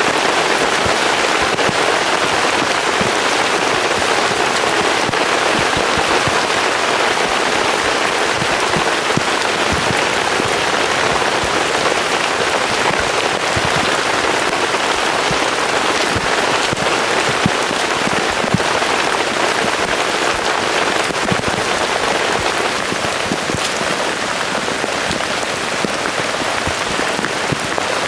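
Heavy rain falling steadily, with the taps of individual drops striking close by.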